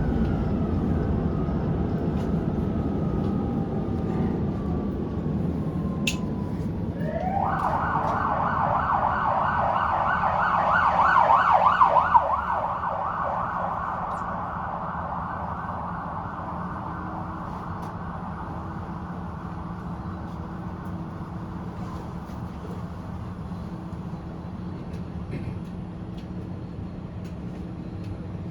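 Prague tram running, with its motor whine falling in pitch at the start and a steady rumble throughout. About seven seconds in, a loud siren-like wail rises sharply and warbles rapidly for about five seconds, then cuts off suddenly.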